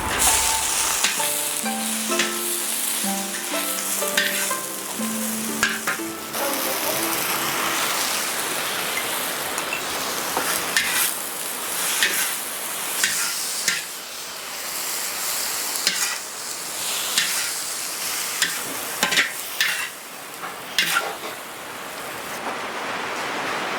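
Food frying and sizzling in a pan with a steady hiss, stirred with a utensil that scrapes and clicks against the pan now and then. Soft background music plays for the first few seconds.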